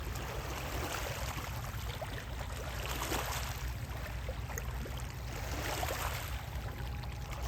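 Steady low rumble with an even wash of water noise and a few faint ticks, typical of waterside ambience as a vessel is filmed from nearby.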